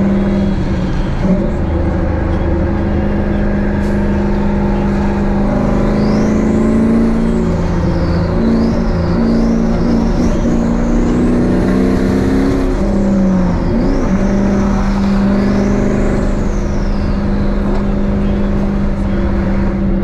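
Turbocharged 1998 Chevrolet Camaro SS V8 being driven, its engine running with a steady note that shifts pitch several times in the middle. A high turbo whistle rises and falls with the throttle.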